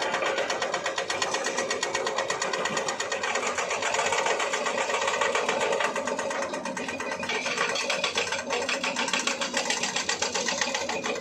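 An engine running with a fast, even mechanical clatter at a steady pace.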